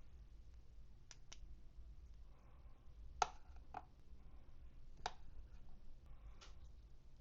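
Sparse, sharp clicks and taps of small plastic toy pieces being handled and set down, with a faint rustle of packaging. The sharpest tap comes about three seconds in.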